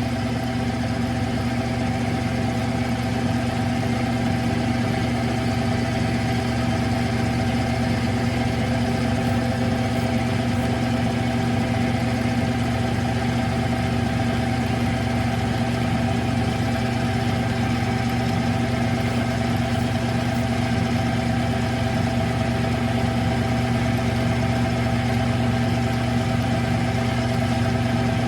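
Smithy CB-1220XL 3-in-1 lathe running a facing cut on a transmission filler plug under its automatic feed: a steady motor and gear hum with several constant tones that does not change. The spindle is turning slowly, which the machinist thinks is too slow for the cut.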